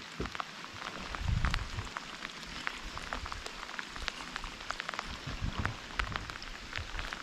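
Rain falling, with many scattered sharp drop ticks over a steady hiss. Low rumbles come about a second in and again past five seconds.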